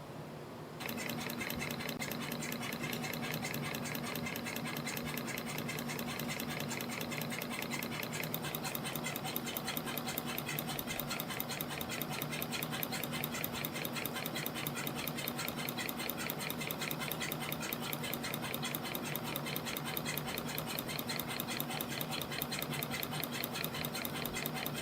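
CNC spring coiling machine (YHM CF-310) running, coiling 0.3 mm wire into variable-diameter compression springs: a fast, even ticking over a steady motor hum that starts about a second in.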